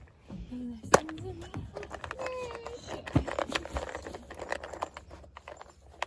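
Roofing screws clicking and rattling as they are handled, with one sharp knock about a second in.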